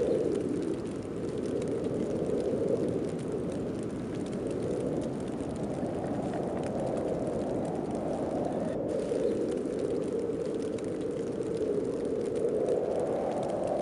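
Heavy snowstorm wind blowing steadily, its low hollow rush swelling and easing every few seconds as gusts come and go.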